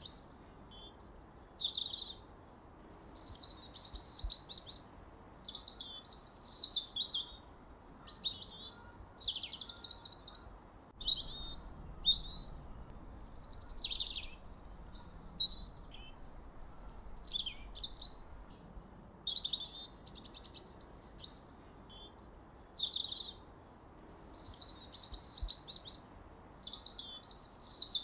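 Songbirds singing a string of short, varied, high-pitched phrases of chirps and falling trills, each about a second long with brief pauses between, over a faint steady hiss.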